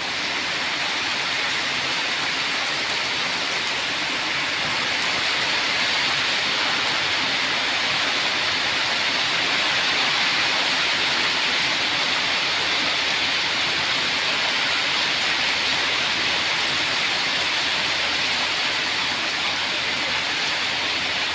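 A steady, even hiss of rushing noise, strongest in the upper range, that starts and stops abruptly.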